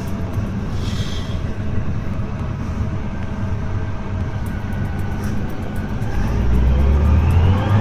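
Tractor engine running under heavy load, revving up and growing louder about six seconds in.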